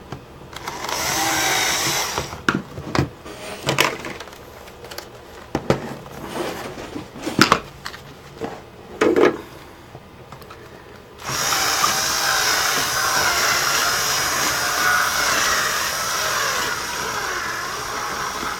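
Battery-powered drill enlarging a hole in a laptop's plastic case. A short burst about a second in, then scattered clicks and knocks, then a long steady run from about eleven seconds in that cuts off suddenly at the end as the drill's batteries die.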